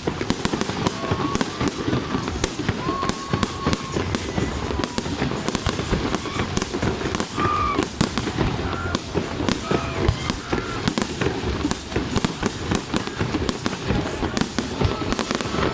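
Fireworks display: a dense, continuous barrage of bangs and crackles, many reports close together throughout.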